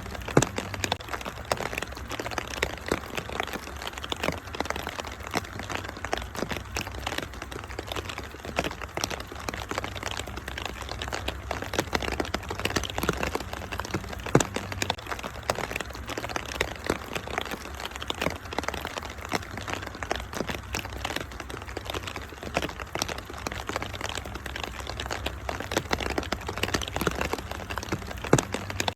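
Wood fire crackling in a fireplace, a dense, continuous run of sharp pops and snaps over a steady hiss of rain.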